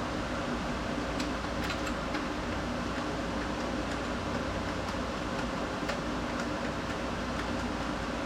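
A steady mechanical hum with faint, irregular light ticks.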